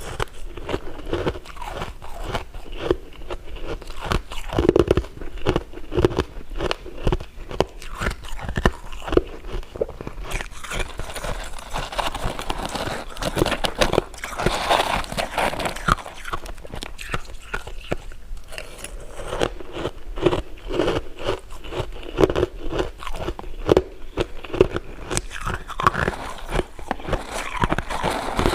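Close-miked eating: biting and chewing with many irregular crunchy crackles.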